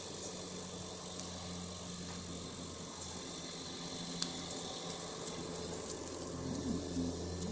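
Touchfree automatic car wash machine running: a steady motor hum under a continuous hiss of spraying water.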